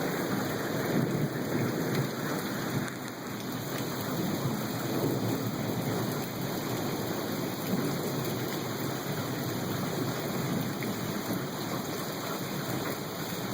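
Rain falling steadily, with a low rumble of thunder beneath it.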